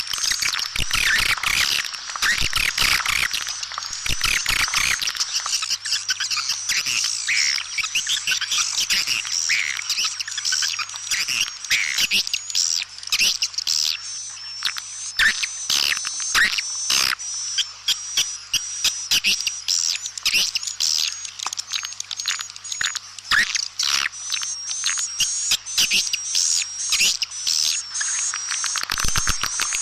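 Edible-nest swiftlets twittering in a dense, unbroken stream of rapid high chirps and clicks: a swiftlet call recording, the kind played to lure swiftlets into a nesting house.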